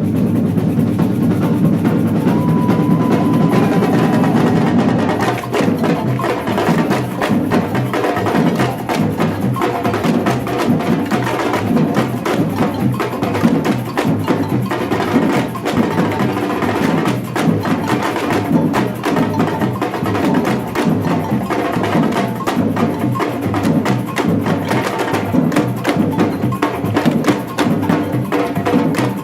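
Batucada samba drum ensemble playing a fast, steady rhythm: deep bass drums under dense, sharp higher strokes.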